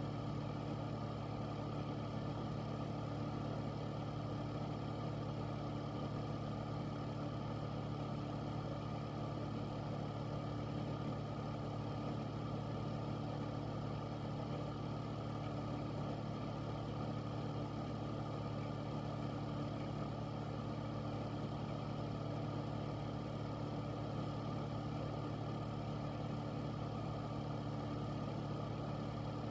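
Air filter's fan running steadily: a constant low motor hum with an even rush of moving air.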